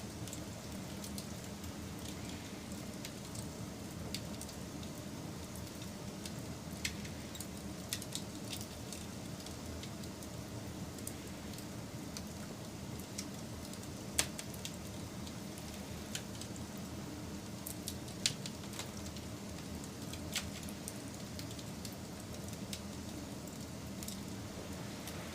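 Wood fire crackling: a steady low rush of burning with scattered irregular sharp pops and snaps, the loudest about 14 and 18 seconds in.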